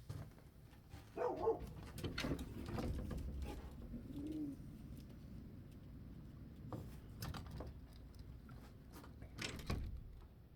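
A bird cooing low a few times, with scattered clicks and knocks, the loudest near the end.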